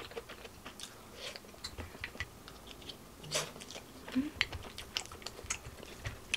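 Close-up eating sounds: a mouthful of fried rice being chewed, with many short, sharp clicks from wooden utensils scooping in the bowl.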